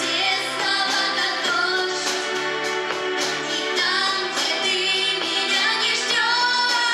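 A song with a woman singing the lead over instrumental backing.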